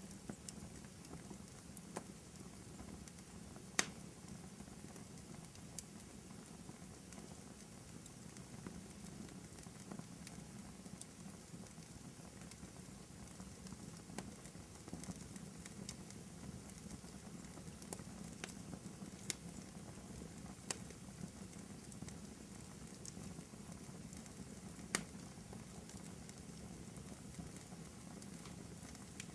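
Wood fire burning in a fireplace: a steady low rush of flame with scattered crackles and pops. Two sharper pops stand out, one about four seconds in and one near the end.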